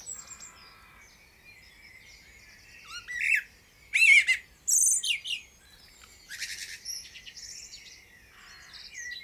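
Several birds singing and chirping: short whistled phrases and trills, with the loudest calls about four to five seconds in.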